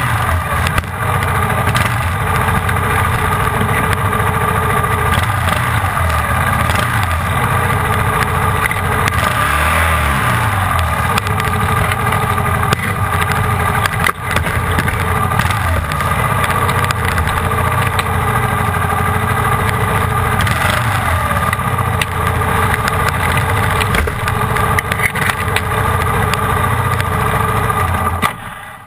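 Motorcycle engine running steadily, its note briefly dipping and wavering about ten seconds in.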